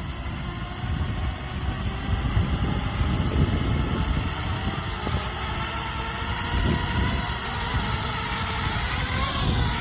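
QAV250 quadcopter's four brushless motors (Tiankongrc MT2204 2300KV) and two-blade propellers running as it flies, a steady whine of several high tones that shift in pitch near the end as the throttle changes. Strong wind rumbles on the microphone underneath.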